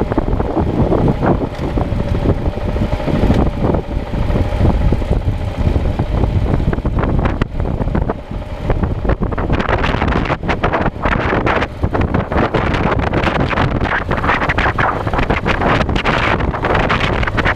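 Riding a motorcycle, with strong wind noise gusting on the microphone over the engine running underneath.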